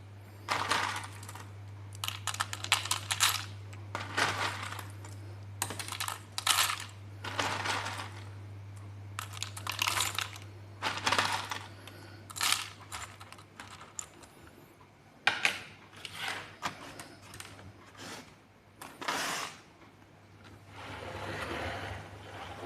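Small plastic building blocks clicking and clattering as pieces are handled and pressed together, in irregular bursts of clicks, over a steady low hum.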